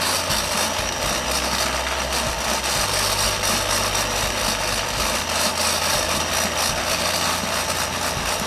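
Toy blender's small electric motor running, a steady mechanical whir with a faint fast ticking.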